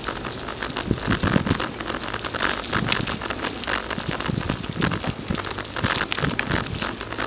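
Bicycle riding along a paved trail: steady tyre and rolling noise with frequent small crackles and knocks, and wind buffeting the microphone.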